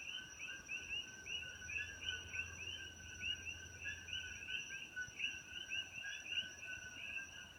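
Chorus of many common coqui frogs, overlapping two-note 'co-qui' calls: a short lower note followed by a rising higher one, repeated over and over. A steady high-pitched tone runs behind them.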